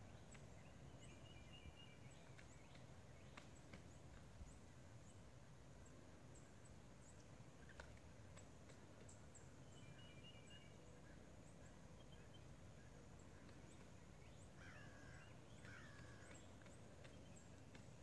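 Near silence: faint outdoor ambience with a few short, distant bird chirps and calls, and a handful of faint taps.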